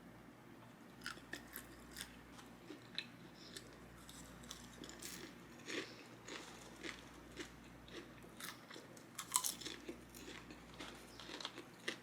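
Someone chewing and crunching food close to the microphone: short, irregular crunches and mouth clicks, a few louder ones about three-quarters of the way through.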